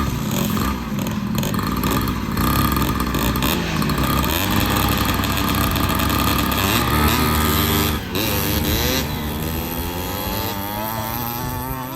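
Kawasaki KMX 125 dirt bike's two-stroke single-cylinder engine revving up and down as it is ridden. It dips briefly about two-thirds of the way through, then climbs in pitch again as it accelerates.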